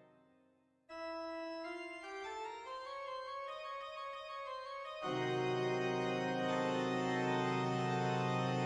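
Organ music: a held chord dies away, and after a short pause a single line of notes climbs step by step. About five seconds in, a full, louder sustained chord comes in.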